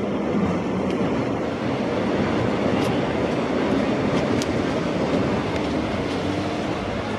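Melbourne Metro electric suburban train running along an elevated concrete viaduct: a steady rumble of wheels on rail, with a few faint high ticks.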